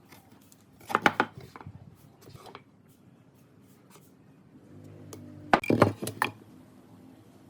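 Wooden pieces knocking and clattering as they are handled: a quick cluster of knocks about a second in, then a louder burst of several knocks a little past halfway.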